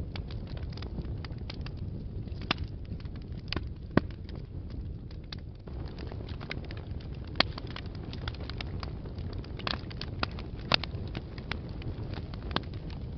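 Wood fire burning in a fireplace: a steady low rumble of flames with irregular crackles and sharp pops of burning logs, the loudest pops about 4, 7 and 11 seconds in.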